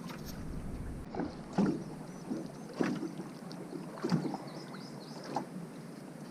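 Scattered short knocks and handling sounds in a small fishing boat, over a steady low background hiss.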